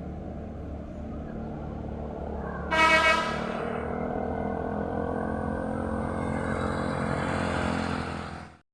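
Truck engines running, with one short horn blast about three seconds in. The sound cuts off abruptly just before the end.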